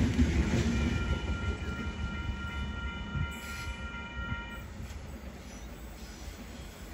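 A train passing with a heavy rumble that fades as it moves away. About a second in, a multi-tone train horn sounds for roughly four seconds.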